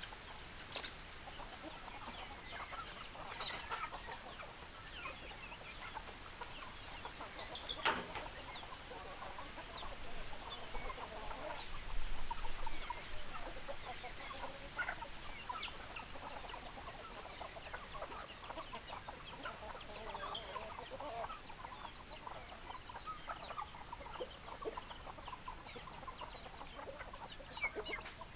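A flock of hens clucking, with many short calls overlapping continuously and a single sharp click about eight seconds in.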